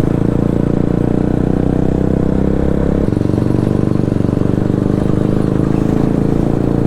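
KTM RC 200 single-cylinder engine with an aftermarket Akrapovic full-system exhaust, running steadily while the bike is ridden. Its note changes abruptly about three seconds in.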